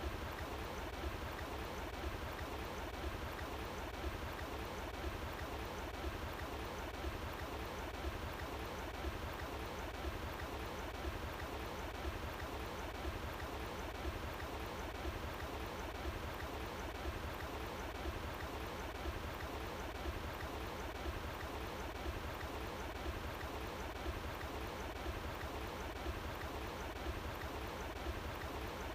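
Running water, a steady rushing flow like a stream.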